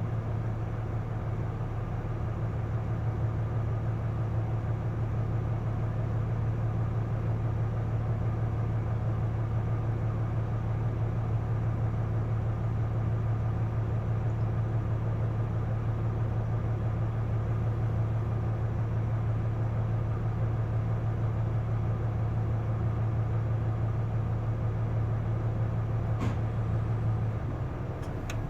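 Isuzu Erga city bus heard from inside the cabin, its 6HK1 inline-six diesel running at a steady speed with a strong, even low drone that drops away near the end. There are a couple of faint clicks just before the end.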